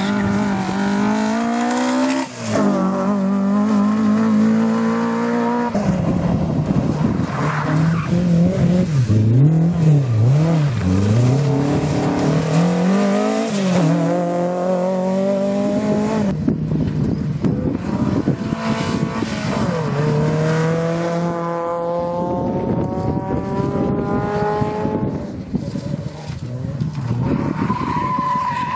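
Rally car engines at full throttle, climbing in pitch and dropping at each upshift. Around the middle the revs waver up and down as the throttle is worked on and off.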